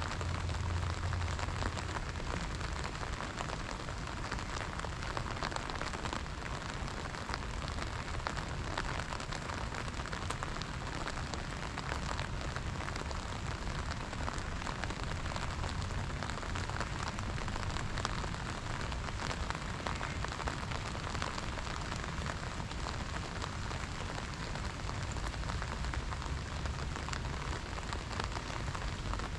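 Steady rain falling on wet stone paving, an even, dense patter of drops.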